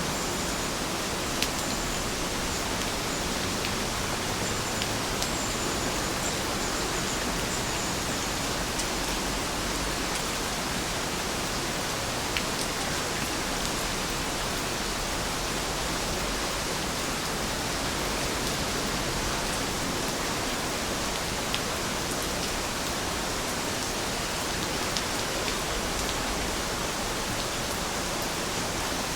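Steady rain falling in an even hiss, with a few sharper single drop hits now and then.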